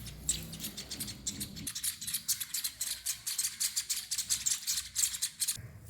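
Baby weaver bird chicks begging to be fed, a rapid run of short high-pitched chittering calls, many a second, that stops shortly before the end.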